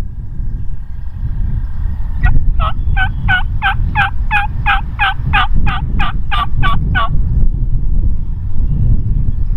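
A run of about fourteen turkey yelps, evenly spaced at roughly three a second, starting about two seconds in and stopping about seven seconds in, over a steady low rumble.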